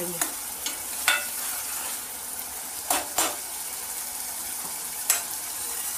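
Masala sizzling as it fries in an aluminium kadhai after a splash of water, with a steady hiss. A steel ladle stirs it and clinks against the pans about six times.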